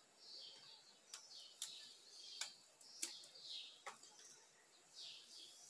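Faint, repeated high chirps of a small bird, each falling in pitch, with about five sharp little clicks scattered among them.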